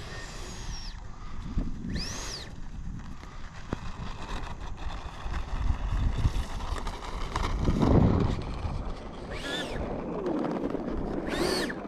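Electric ducted fan of a 70mm RC jet revved in short blips, each a brief whine that rises and falls. This throws rainwater out of the fan. Wind rumbles on the microphone underneath.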